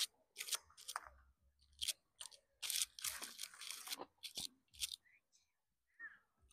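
A person chewing a crispy fried chicken burger close to a clip-on microphone: irregular crisp crunches bite after bite, with short pauses, densest around the middle.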